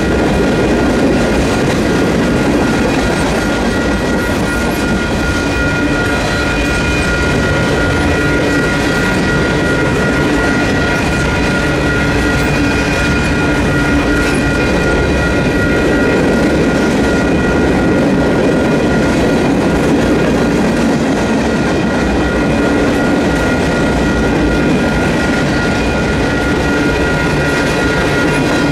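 Freight cars of a manifest train rolling past at speed: steady heavy rumble with wheels clattering over the rail joints. Over it, the crossing's electronic warning bells ring on in a steady high tone.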